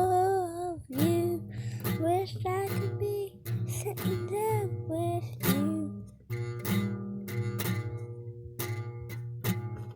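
Acoustic guitar strummed in a steady rhythm, with a voice singing wordless, gliding notes over it.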